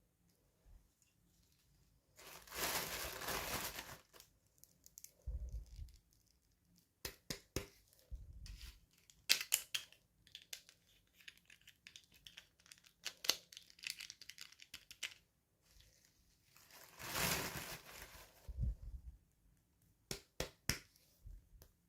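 Toy packaging being torn open, with two long tears, one a couple of seconds in and another about two-thirds of the way through. Between them the packaging crinkles and is handled with many small clicks and taps.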